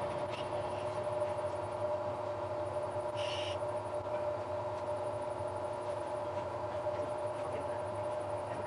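Steady mechanical hum of a stopped train's equipment idling, with a few steady tones and a short high squeak about three seconds in.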